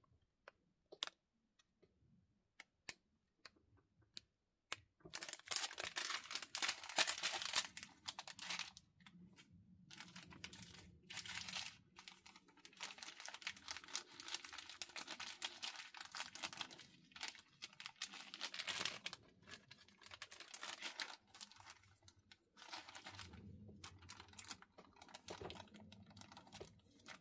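Plastic packaging of a diamond painting kit crinkling as it is handled and opened, with many small clicks and taps. The first few seconds are near quiet with scattered clicks, and the crinkling starts about five seconds in.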